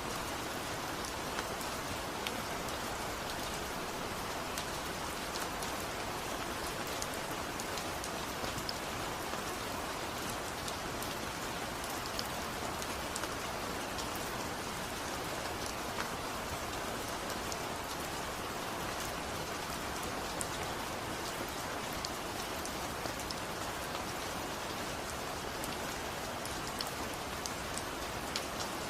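Steady rain falling, an even hiss with many scattered light drop ticks.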